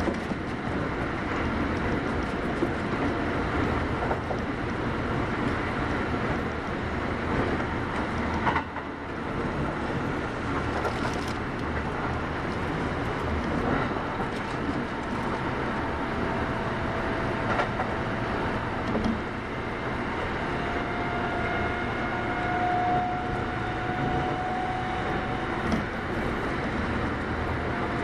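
Kintetsu 8810 series electric train running at speed, heard from inside a carriage: a steady rumble of wheels and running gear with a thin, steady whine that grows stronger in the second half.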